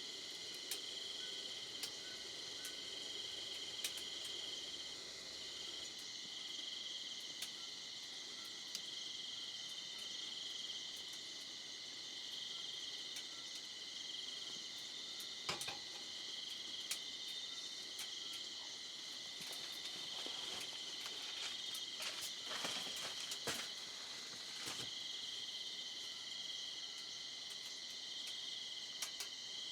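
A steady chorus of night insects chirring, one of them pulsing about once a second. A few sharp taps or clicks come through, most of them bunched together about three-quarters of the way in.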